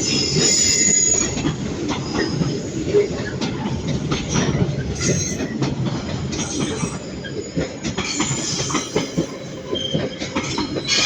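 Intermodal freight train hauled by a Class 66 diesel passing fast, its wagon wheels clattering over rail joints with bursts of high-pitched wheel squeal.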